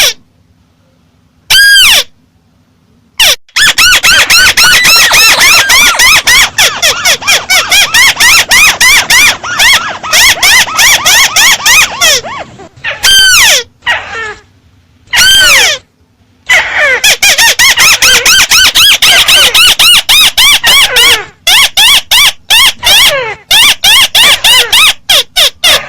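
Boosted-volume recording of the bird known in Vietnamese as 'chim mắt xéo' calling: harsh, squealing chirps that rise and fall, a few single calls and two long runs of rapid chatter, played very loud.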